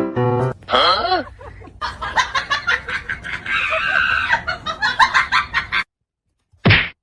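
A chicken clucking in quick repeated calls that break off abruptly about six seconds in, followed by one short loud call near the end.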